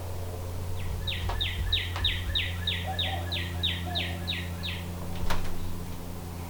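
A bird singing a run of about a dozen quick, repeated down-slurred notes, about three a second, over a steady low hum. A single sharp click comes about five seconds in.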